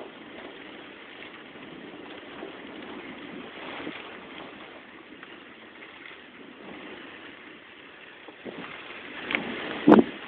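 Steady noise of heavy rain and wind in a thunderstorm. Near the end come a couple of sharp taps, the loudest about ten seconds in.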